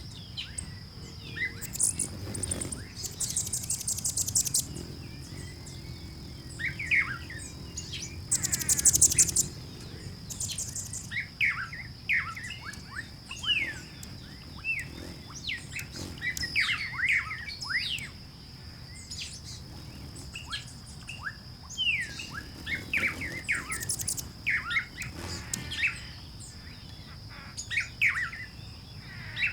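Mixed chorus of many birds chirping and calling, with short whistled notes sliding up and down in pitch and a steady high whine underneath. Two loud, rapid high-pitched trills stand out, one a few seconds in and another at about nine seconds.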